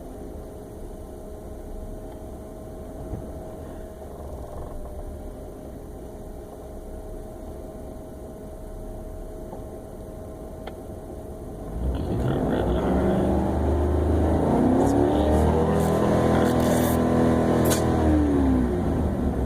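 Ford F-150's three-valve V8 idling in park, then revved about 12 seconds in: the engine speed climbs, holds for several seconds and falls back near the end. The rev brings no unusual noise, though the truck has been idling rough and stalling since a tune-up.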